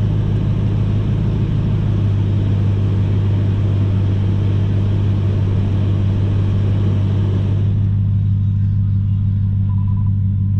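BMW E39 540i's 4.4-litre V8 idling steadily while warming up, through a custom cat-less exhaust with a Thrush muffler. It holds a deep, even note with no revs. About eight seconds in, the higher part of the sound falls away while the low idle continues.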